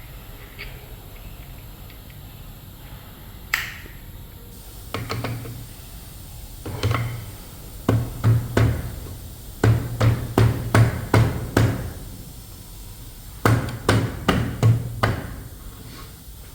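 A hammer knocking in short groups of sharp blows, two to six at a time with pauses between, as in hammering parts into place during engine assembly.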